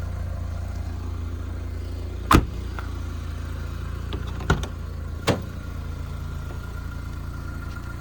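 The 1992 Vauxhall Cavalier's 2.0 eight-valve engine idling with a steady low hum. Three sharp knocks come about two, four and a half, and five seconds in, the first the loudest.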